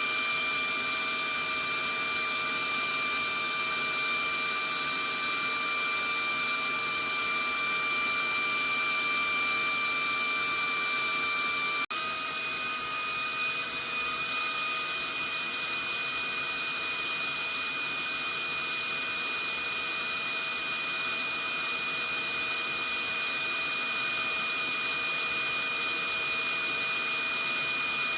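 Vacuum cleaner running steadily: a rushing hiss with a high motor whine over it. About twelve seconds in, the sound drops out for an instant and comes back a little louder, with its whine slightly higher.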